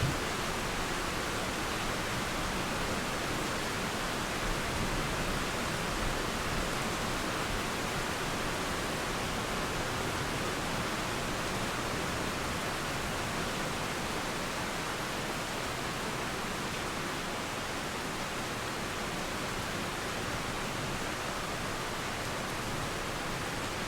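Steady rain with a flowing river beneath it, an even, unbroken hiss of falling and running water.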